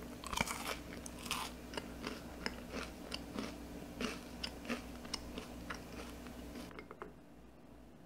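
Chewing a mouthful of crisp toasted bread-cube rusk: irregular sharp crunches a few times a second, loudest near the start, dying away about seven seconds in.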